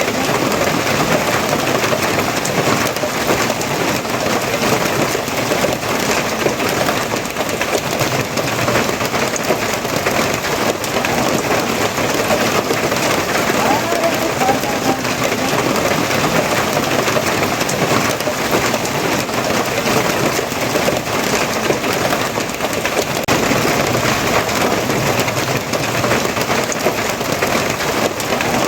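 Steady heavy rain falling, a dense, even hiss of drops that keeps up without pause.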